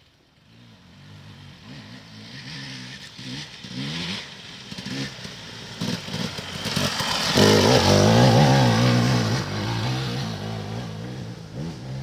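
Enduro motorcycle engine coming closer with the throttle opened and closed again and again. It is loudest about eight seconds in as it passes close by, then fades as it moves off.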